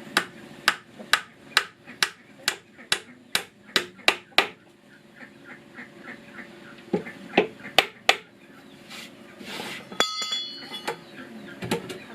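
Hammer driving nails into wood: a steady run of about ten sharp blows, roughly two a second, then a pause and a few more blows, with a brief metallic clink about ten seconds in.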